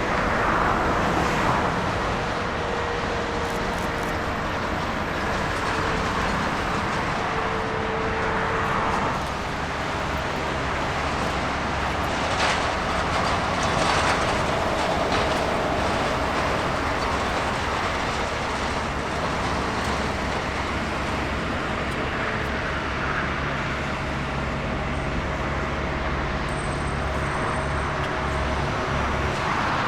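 Jet airliner engines running, a steady roar with a faint whine that slowly drops in pitch over the first several seconds.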